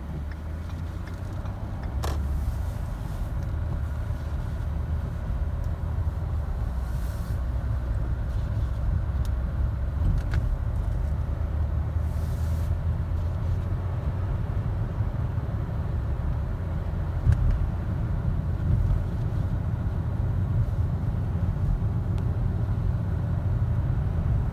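Steady low road rumble inside a car's cabin while driving on a snowy road, mostly tyre and engine noise from a car on Michelin CrossClimate 2 tyres.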